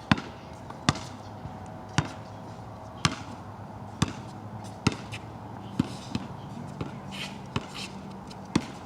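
A basketball being dribbled on a wet court, bouncing with sharp, separate impacts about once a second.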